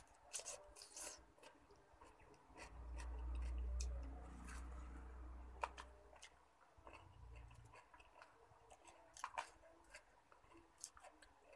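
Close-up chewing of a mouthful of cooked cabbage and carrot, with soft mouth clicks, and later chopsticks clicking against a plastic tub. A low rumble runs for about four seconds in the middle and is the loudest sound.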